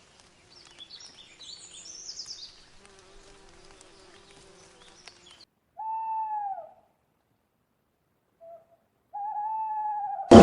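Faint high bird chirps over a low steady hum, then two separate drawn-out, single-pitched animal calls, each about a second long.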